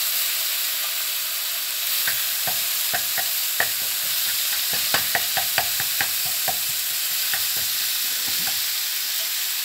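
Minced pork sizzling as it fries in a nonstick wok, with a spatula tapping and scraping against the pan as it is stirred. The clicks come thickest through the middle.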